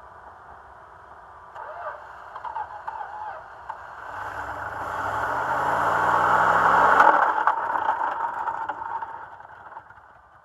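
Truck engine that had sat unrun for about 20 years, running and revving: its pitch climbs for a couple of seconds to the loudest point, then drops away suddenly about seven seconds in.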